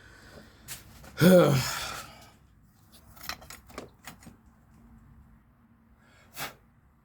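A man lets out a single wordless, frustrated vocal groan about a second in, followed by scattered faint clicks and taps of tools and parts, and a short rustle near the end.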